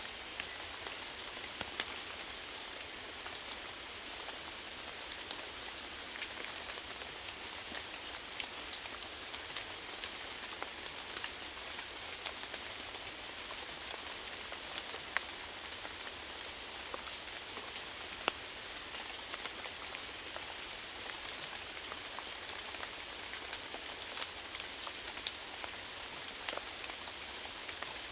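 Steady rainfall: an even hiss of rain with scattered louder drops ticking on a surface.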